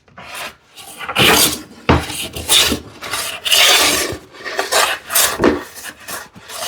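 Hand plane taking shavings off a solid cherry panel: a series of rasping push strokes, about one a second.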